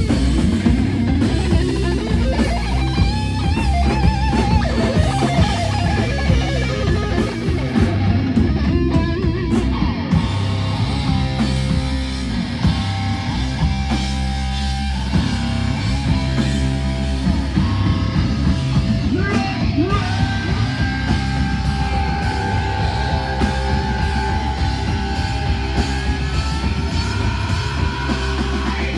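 Live heavy rock band playing an instrumental passage: distorted electric guitars over bass and drum kit.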